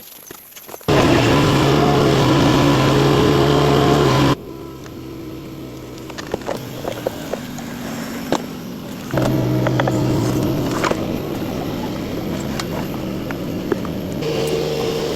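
An engine running steadily, heard in sections that start and stop abruptly where clips are cut together, with scattered clicks and knocks between them.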